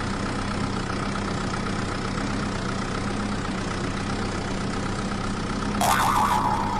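A steady, engine-like idling hum with a thin high whine over it. Near the end comes a brief louder burst that rises above the hum.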